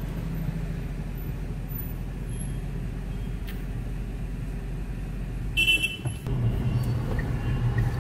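Steady low engine and road noise inside a moving Tata Punch with its three-cylinder petrol engine, in city traffic. About five and a half seconds in, a short car horn toot sounds.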